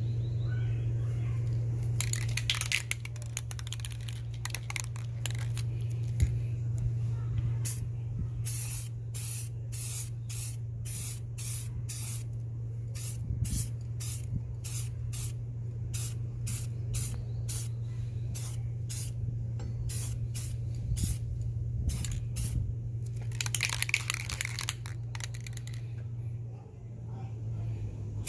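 Aerosol spray can of Plasti Dip spraying in short hissing strokes, about two a second through the middle, with longer continuous sprays near the start and toward the end, over a steady low hum.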